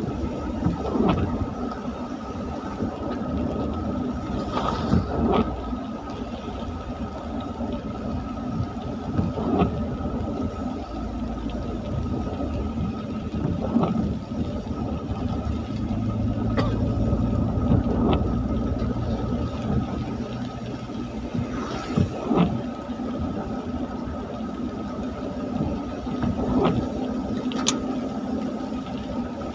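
Motor vehicles running on a rain-wet road: a steady engine rumble and tyre hiss, with a short knock every few seconds.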